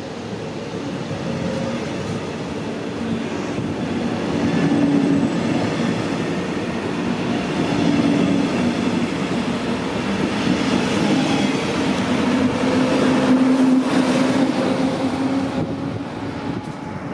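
A train passing along the line, its wheels running on the rails with a steady humming tone. The sound swells and eases several times and dies down near the end.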